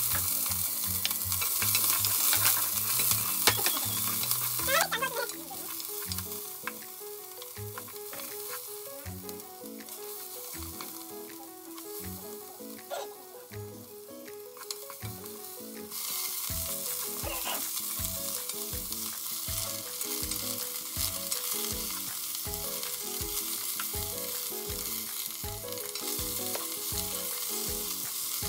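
Green onion, garlic and peperoncino sizzling in hot oil in a cast iron pot while being stirred. The sizzle is loud at first, drops through the middle and picks up again just past halfway; napa cabbage is in the pot by the end.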